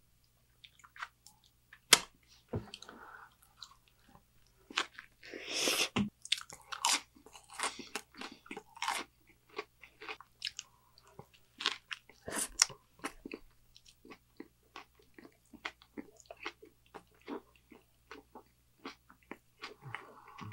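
Close-miked chewing of a Burger King Whopper: irregular wet mouth clicks and crunches. There is a sharper, louder click about two seconds in and a denser crunchy stretch around five to six seconds.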